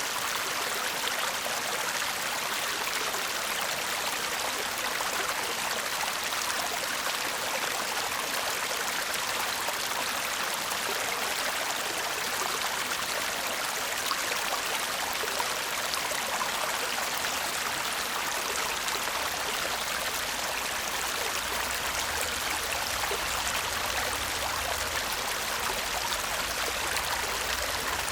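A shallow stream babbling and trickling steadily over stones, a continuous even rush of water.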